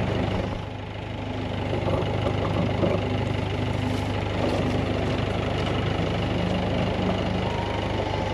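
Engine idling steadily with an even, fast pulsing hum.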